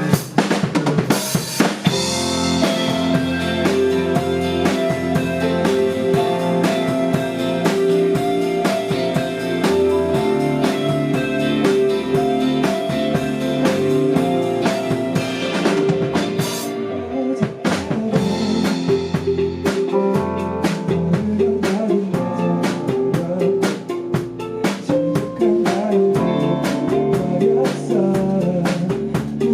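A rock band playing a song: drum kit keeping a steady beat under bass and sustained chords, with cymbal crashes about a second in and again around halfway.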